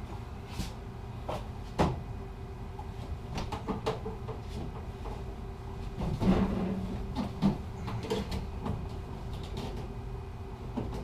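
Scattered clicks, knocks and clatter of furnace vent pipe and fittings being handled and fitted back together, heaviest about six to seven and a half seconds in, over a steady low hum.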